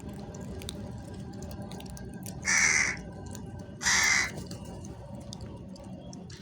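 Crow cawing twice, two short harsh calls about a second and a half apart.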